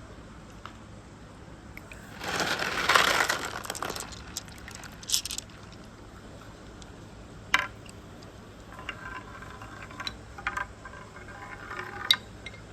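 Marbles running down a marble-run course: a rushing roll about two seconds in, then scattered clicks and clacks as they knock along the track.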